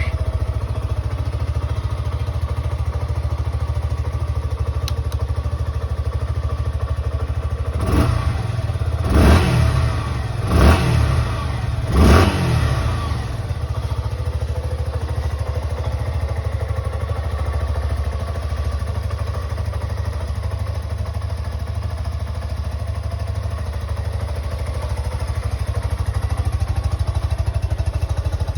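2021 Suzuki Gixxer 150's 154 cc air-cooled single-cylinder engine breathing through its stock muffler, idling steadily. It is revved four times in quick succession, about eight to twelve seconds in, each rev rising and falling back, then settles to idle again.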